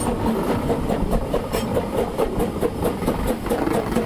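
Ffestiniog Railway narrow-gauge steam train running, with a steady rumble and a quick, uneven run of clicks from the wheels and track.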